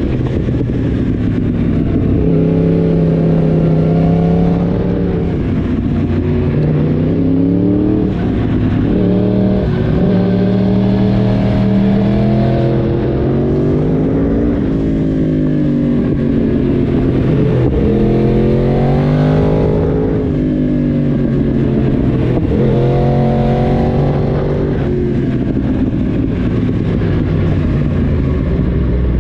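Yamaha YZF-R1 crossplane inline-four sport bike engine heard onboard, with a loud, free-flowing exhaust. It runs through several cycles of revs climbing under throttle and dropping off as the throttle closes or it shifts, about four times.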